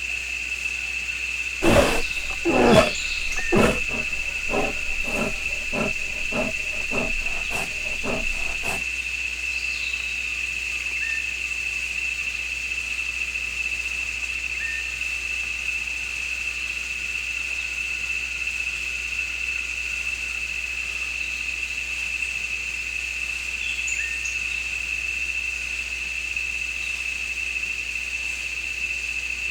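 A big cat calling: a series of about a dozen grunts over some seven seconds, coming a little faster and growing shorter and fainter toward the end. A steady high insect drone runs underneath.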